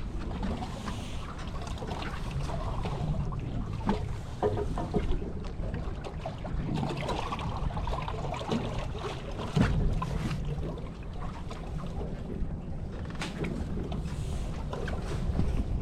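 Wind buffeting the microphone in an open fishing boat, a steady uneven rumble, with scattered light knocks and clicks of handling.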